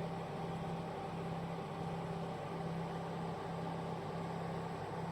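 STAYWARM 2000 W fan heater running on its heat setting: a steady fan whir with a constant low hum.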